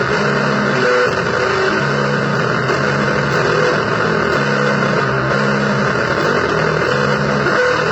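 Harsh noise music: a loud, dense wall of distorted noise with low droning pitched tones that switch on and off every second or so.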